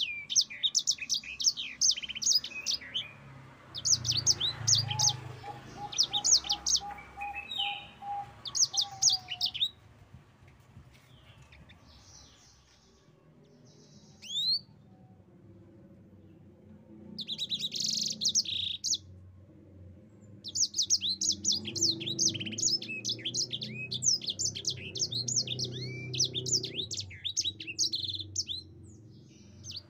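Yellow-fronted canary (Mozambique canary) singing fast runs of high chirps and trills in bursts. A long quieter pause comes before the middle, then a long unbroken rolling run fills the last third.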